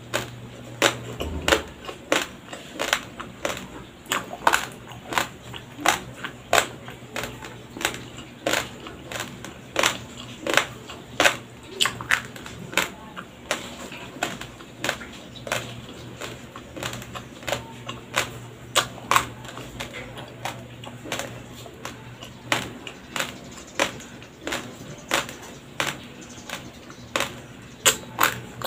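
Raw, uncooked white rice grains crunched between the teeth close to a lapel microphone: a steady run of sharp, dry crunches, roughly one or two a second.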